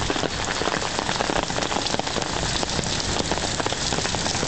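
Heavy rain pouring down: a steady, dense patter of drops hitting hard surfaces.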